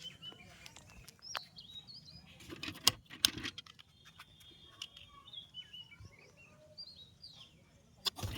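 Small birds chirping, short rapid chirps throughout, with scattered sharp clicks and two louder knocks about three seconds in.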